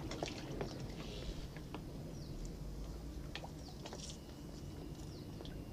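Faint high bird chirps, a few short falling notes, over a low rumble of wind and water, with scattered small clicks and knocks.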